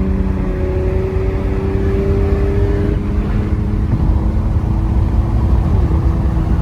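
Lexus engine heard through a newly fitted axle-back exhaust with the muffler removed, running at cruise. The engine note climbs slowly as the car gains speed, then drops slightly with a gear change near the end.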